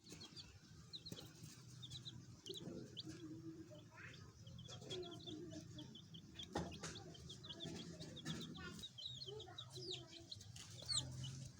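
Chicks peeping in a constant stream of quick, high chirps while a hen clucks low now and then, with a few sharp clicks mixed in.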